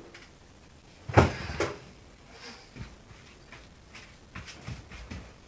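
Scattered knocks and clunks from handling the parts of an old refrigerator being taken apart. The loudest comes about a second in, with a second one just after it, then a few lighter taps.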